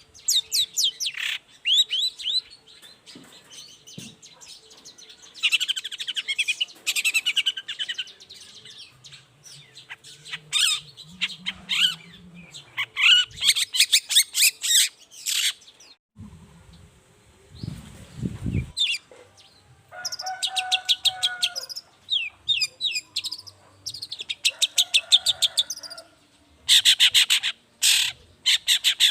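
Long-tailed shrike (cendet) singing in rapid chattering bursts of short high notes, broken by brief pauses. Some phrases drop to a lower pitch, and a low rumble sounds a little past halfway.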